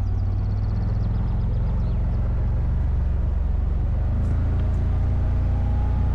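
ATV engine running steadily with an even low drone, with a faint rapid ticking in the first couple of seconds.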